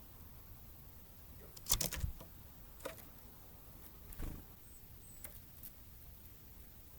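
Great tits at a feeder making sharp taps and clicks as they land and peck: a cluster about two seconds in, then single taps and a short burst a little after four seconds. Two faint, very short high chirps come near the middle.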